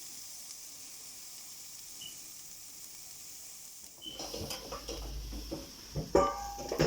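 Chicken and corn sizzling on a barbecue grill, a steady soft hiss. About four seconds in, a low wind rumble and knocks and clatter take over, with a short high-pitched cry near the end.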